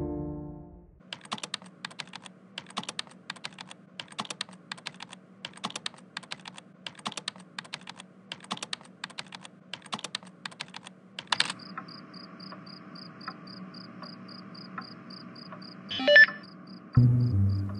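Typing on a computer keyboard: quick, uneven key clicks for about ten seconds. The clicks then stop and a quieter steady hum with faint, evenly spaced ticking follows, with a short sharp sound effect near the end.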